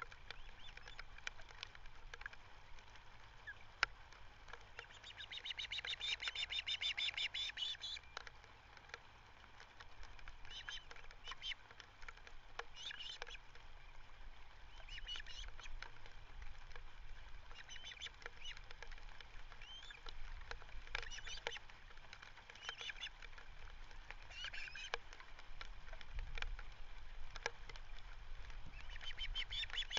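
Ospreys calling: a long run of high, rapid chirping calls about five seconds in and again near the end, with short bursts of calls every second or two between.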